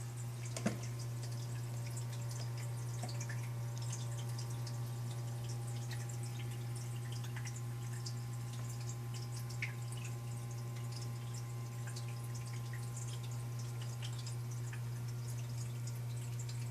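Water dripping and trickling in a rainforest terrarium's water feature, as many small scattered ticks over a steady low hum. One sharp knock comes near the start.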